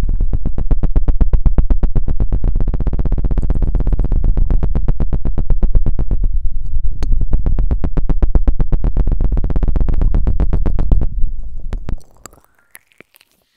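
Very fast, even pulsing right on an ASMR microphone, heavy in the bass, with a buzzy, almost musical sound. It stops abruptly about twelve seconds in.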